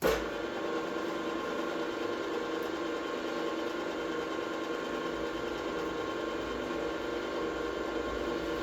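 Electric motor of a workshop machine tool, used here for milling, switched on with a sudden start and then running steadily with an even hum of several tones.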